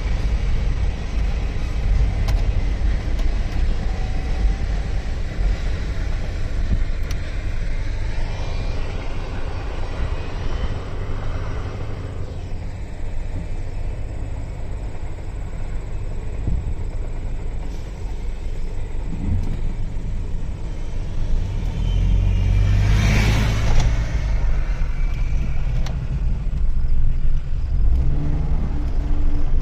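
Low rumble heard from inside a car at a railroad crossing: a freight train's cars rolling past, giving way to the car's own engine and road noise. About 23 seconds in, a brief loud rushing swell rises and falls.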